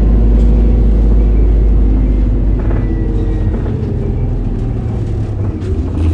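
Inside a city bus, the Isuzu Erga's 4HK1 inline-four diesel engine running as the bus drives. The low engine drone is loudest early on and eases off gradually from about halfway through.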